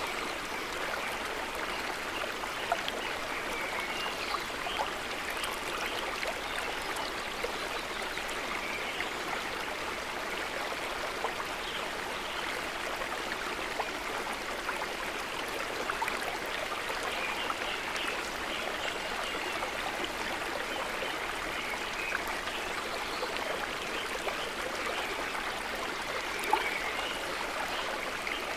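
River water running: a steady rush with small gurgles throughout and a few brief louder splashes, the strongest near the end.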